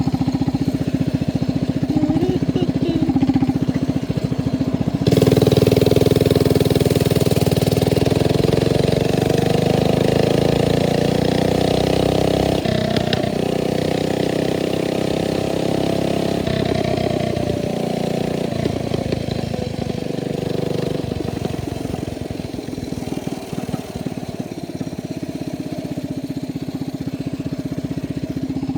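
Hemi mini bike's small engine running near idle, then about five seconds in the throttle opens and it pulls away, the pitch rising and shifting as it rides. In the second half it eases off to a lower, steadier running note.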